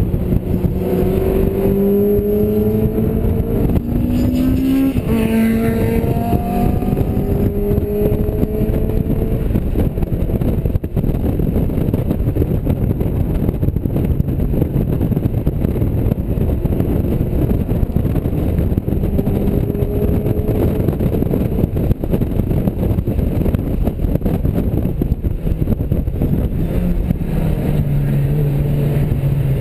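Mazda MX-5's four-cylinder engine at full throttle on track, its note climbing and stepping back at each gear change over the first several seconds. It then sinks under a loud, steady rush of wind and road noise, and the engine note climbs again near the end.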